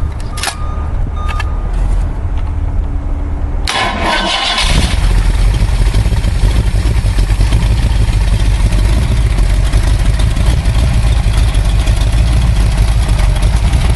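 Ford 427 FE big-block V8, stroked to 482 cubic inches with two four-barrel carburettors, being started from cold: it turns over unevenly for a few seconds, catches suddenly about four seconds in, then runs louder and steadily.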